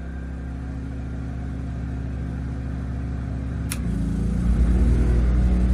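WEN 3600-watt portable generator running steadily, then a click a little over three and a half seconds in, after which its note shifts and it runs louder as the 16,000 BTU air conditioner's compressor kicks on and puts it under load.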